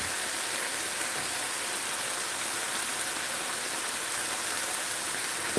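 Ground beef with onions and peppers sizzling steadily as it browns in a nonstick braiser: a constant frying hiss.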